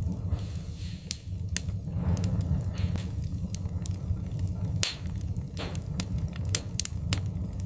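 Wood fire crackling in a fireplace: irregular sharp pops and snaps over a steady low rumble of burning, with a few soft hissing flare-ups.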